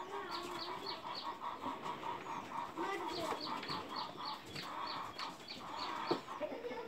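Birds clucking and chirping in a steady rhythm, several short calls a second, with high chirps over lower clucks.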